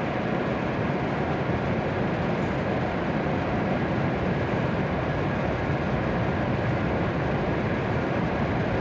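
Steady, even rushing noise on a station platform beside a standing W7 series shinkansen, with no distinct events.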